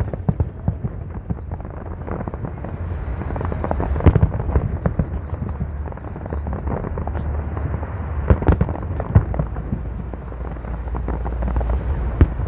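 Fireworks display bursting in quick succession: a constant crackle of pops, with louder booms about four, eight and nine seconds in, over a low rumble.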